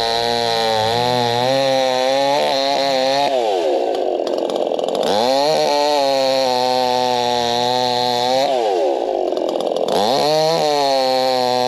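Two-stroke chainsaw running at high revs, its pitch dropping twice as it bogs down under load in a cut, then climbing back up.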